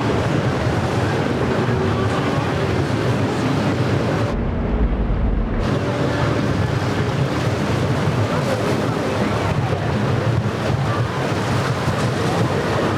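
Boat engines running through rough inlet water, with waves breaking and wind buffeting the microphone as one steady noise.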